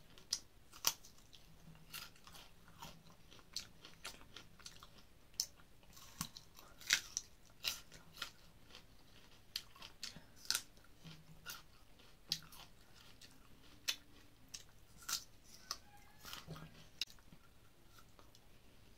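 Close-up eating: a person biting and chewing pieces of prasad by mouth, with irregular sharp crunchy clicks and smacks every second or so.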